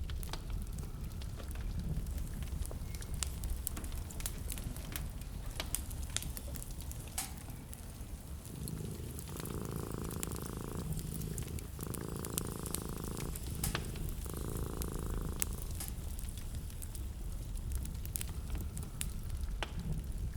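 Wood fire crackling in a fireplace: a steady low rumble with scattered sharp pops and snaps. Midway, a buzzing sound comes three times, each for about a second and a half, with short gaps between.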